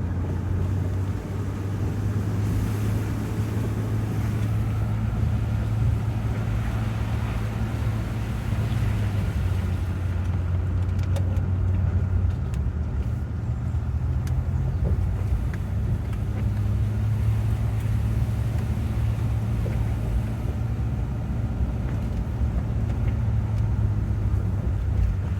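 Steady road noise heard inside a moving car: a low engine and tyre drone, with tyre hiss from the wet, rainy road.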